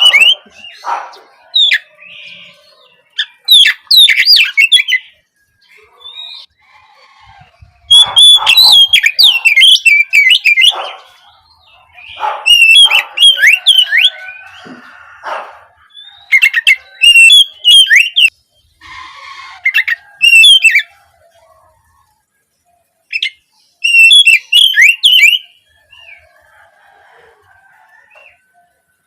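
Oriental magpie-robin (kacer) singing a loud, varied song of quick whistled and gliding notes. It comes in repeated bursts lasting a second or two, with short pauses between them.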